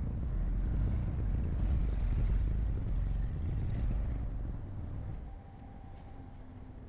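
Heavy diesel construction machinery running with a deep rumble that eases off about five seconds in.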